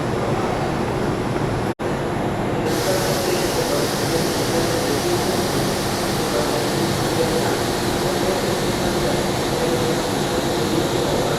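Steady noise and hum of an electric train at a station. There is a brief cut about two seconds in, after which a brighter hiss joins the hum.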